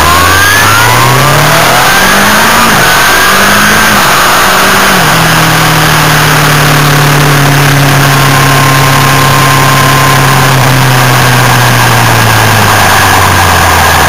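Sport motorcycle's inline-four engine accelerating hard through three quick upshifts in the first five seconds, then holding a steady cruise and easing off near the end. Heavy wind rush over the low-mounted microphone.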